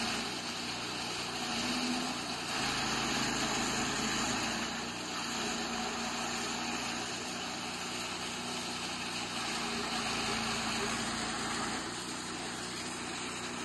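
Chaff cutter machine running steadily, a continuous mechanical noise with an even low drone.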